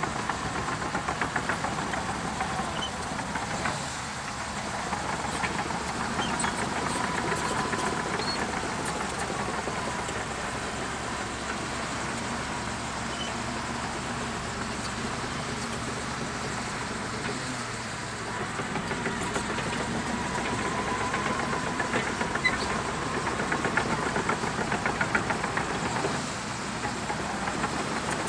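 Shantui DH17C2 crawler bulldozer working: its diesel engine running steadily under load, with a fast regular clatter and a whine that wavers in pitch.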